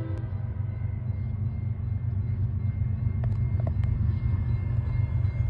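Low rumble of an approaching diesel freight train, growing gradually louder. A locomotive horn blast cuts off just at the start, and a few light clicks come about three to four seconds in.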